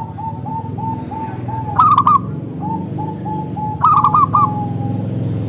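Zebra dove (perkutut) singing: a quick run of short, even coo notes, about three a second, broken twice by a louder, higher phrase with sharp clicks, about two seconds apart. A steady low hum runs underneath.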